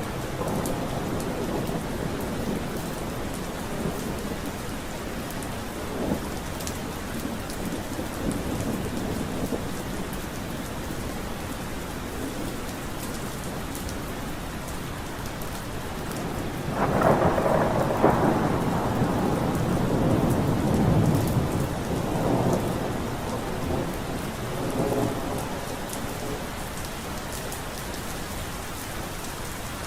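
Steady heavy rain with thunder; a long rolling rumble of thunder swells up a little past halfway and dies away over several seconds.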